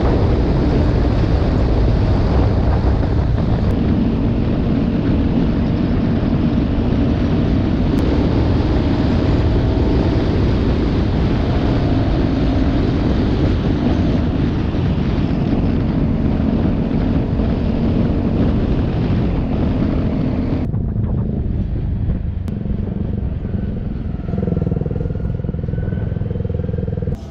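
Motorcycle riding at speed, the engine's steady drone under loud wind rush on the microphone. About 21 s in, the wind rush drops off sharply and the engine keeps running more slowly.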